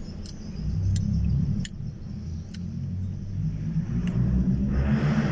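Low car engine rumble heard from inside a car's cabin, swelling about a second in and again near the end, with a few faint clicks.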